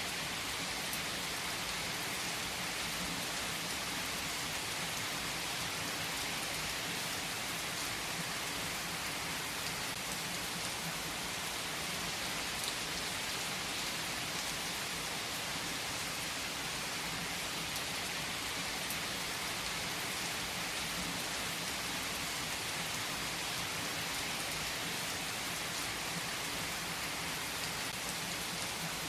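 Steady rainfall: an even hiss of rain on surfaces with faint scattered drop patter.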